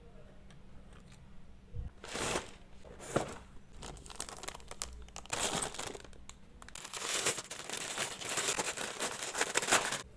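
Packaging being handled and torn open for an unboxing, crinkling and tearing in separate bursts and then almost continuously for the last few seconds.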